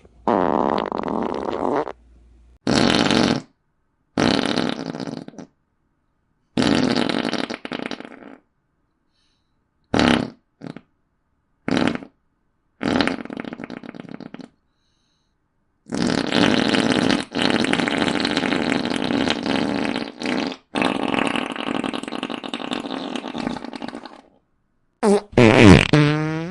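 Fart sound effects played one after another with dead-silent gaps between them, about ten in all. Some are short blips; others are drawn out over a second or more, and the two longest, about four seconds each, come back to back in the second half.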